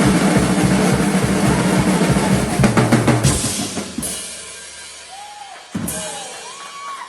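Music with a drum kit keeping a steady beat, which fades out about three seconds in, leaving a much quieter stretch with a few short gliding sounds.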